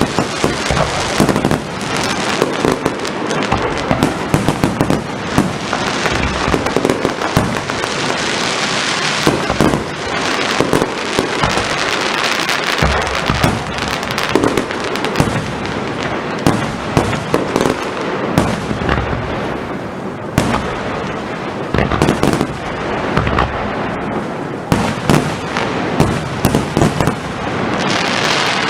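A firework display at full intensity: a dense, continuous run of bangs and crackling shells with many sharp reports.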